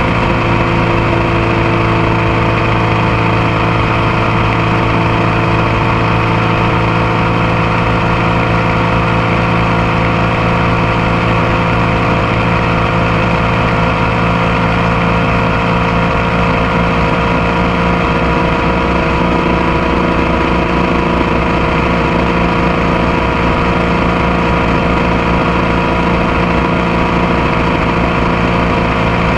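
Motorcycle engine running at a steady cruise, heard up close from the passenger foot peg, with wind and road noise mixed in. The engine pitch and loudness stay even throughout, with no shifts or revving.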